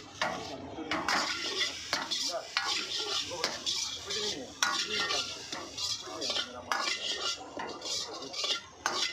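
Metal spatula scraping and clanking against a wok in quick irregular strokes as food is stir-fried, with a faint sizzle underneath.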